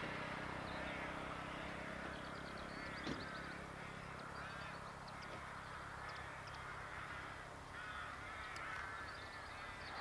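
Birds calling in short repeated phrases every second or two over a faint steady low hum, with a single click about three seconds in.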